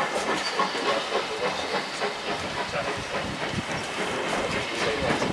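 Steam train running on the rails: a steady hiss of steam mixed with irregular clicks and knocks of wheels and carriages.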